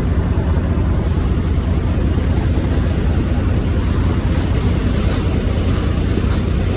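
Semi truck's diesel engine running hard under throttle as the empty truck tries to pull free of snow, a loud steady rumble with irregular short crackles from about four seconds in. The truck is stuck: without a load there is too little weight on the drive tires to get traction.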